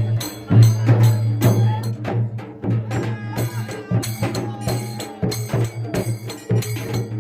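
Percussion music with drums and jingles: a brisk, even beat of strikes with a ringing, jingling edge, pausing briefly about two seconds in before picking up again.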